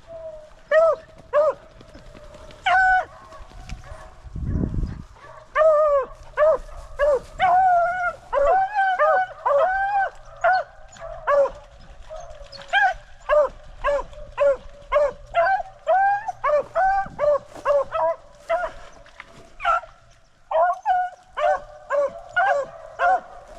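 Beagles baying on a rabbit's scent trail: a run of short, pitched bawls, coming singly at first, then fast and overlapping from about five seconds in, as the pack works the track.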